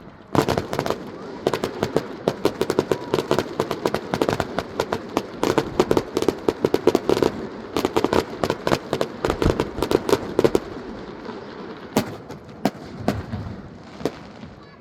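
Aerial fireworks: a dense, rapid crackle of many small bangs for about ten seconds, then a few scattered single bangs.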